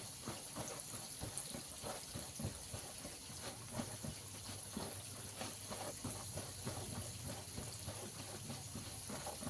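Flour-coated chicken pieces frying in hot oil: a steady sizzle with many small, irregular crackles.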